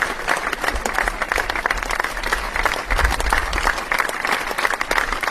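A large audience applauding steadily, many hands clapping at once in a dense, even patter.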